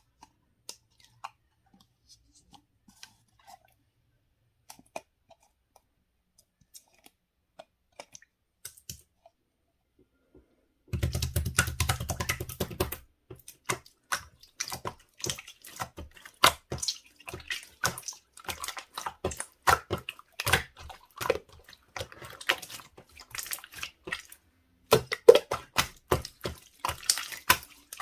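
Slime being played with by hand: sparse, faint sticky clicks for the first ten seconds or so, then, from about eleven seconds in, a brief low rumble and dense wet crackling with clicks and pops of air pockets.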